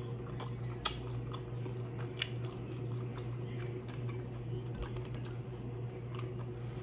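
Close-up chewing of a mouthful of homemade taco, with scattered small crackles as the fried taco shell is torn apart by hand. A steady low hum runs underneath.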